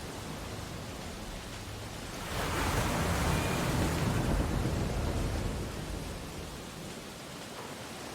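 Ocean waves on a beach: a steady wash of surf, with one wave breaking and rushing in about two seconds in, then fading back over the next few seconds.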